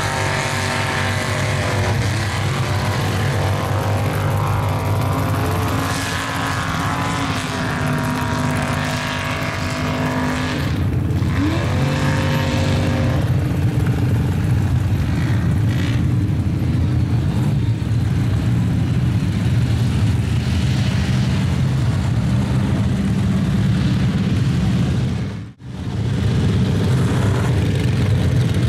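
Mud trucks' engines running hard, revving up and down in pitch over a heavy low rumble, with a momentary dropout in the sound about 25 seconds in.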